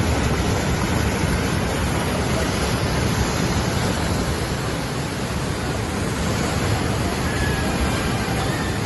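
Waterfall: steady, loud rush of falling water, heavy in the low end, with no breaks.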